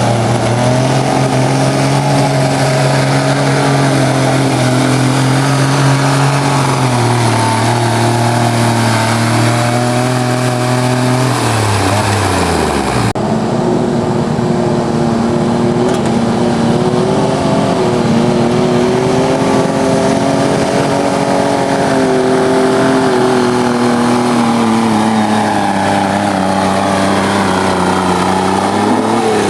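Turbocharged diesel garden tractor engine running flat out under load on a pull, its pitch sagging and then falling off about 12 seconds in. It cuts abruptly to a second stretch of the engine under load at high speed, which falls off again near the end.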